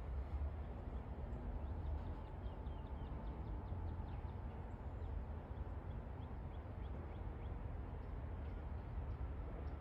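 Small birds chirping faintly, with many short high notes scattered throughout, over a steady low rumble.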